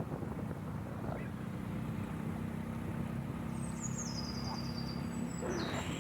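A vehicle's engine and road noise running as a steady low drone. A bird calls over it in high notes that step down in pitch, from about three and a half seconds in and again near the end.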